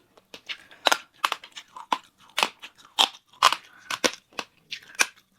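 Close-up crunchy chewing of food: a string of sharp, crackly crunches, about two or three a second.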